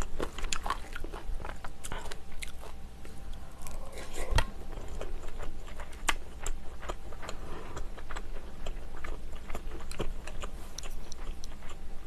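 A person chewing a mouthful of spicy seafood stew close to the microphone: wet chewing with many small, sharp mouth clicks throughout.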